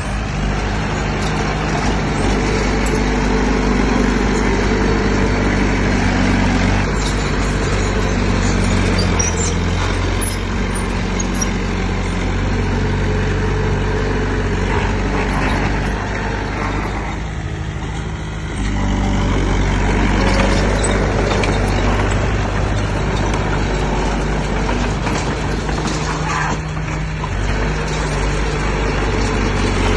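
Heavy diesel engine of earthmoving equipment running steadily under load. It eases off briefly a little past the middle, then picks up again.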